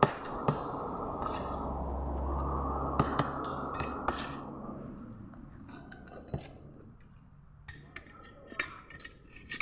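Cutlery and dishes clinking and scraping as people eat, with scattered sharp clicks. Under them a steady rushing noise swells and then fades away about five seconds in.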